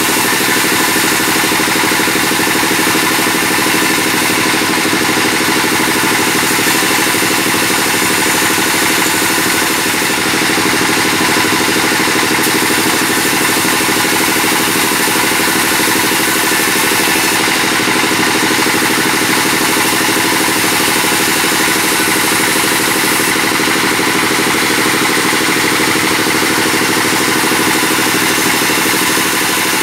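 Sawmill bandsaw machinery running loud and steady, a constant drone with a hiss over it that holds unchanged throughout.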